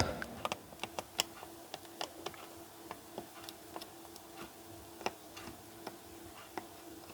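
Scattered faint clicks and taps from handling the plastic blood pressure monitor and its wires on the bench, irregular, a few a second, over a faint steady hum.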